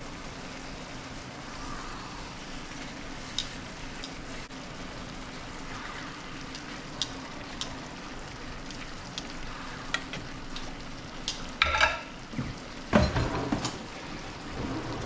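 Fish cooking in a pan on the stove with a steady sizzling hiss. A few light ticks come in the first half, and a louder clatter of knocks, like a pan and utensils being handled, comes near the end.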